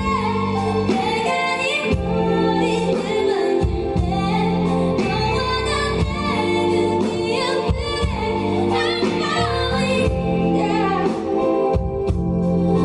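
Live pop song: a woman singing a melody over sustained instrumental accompaniment.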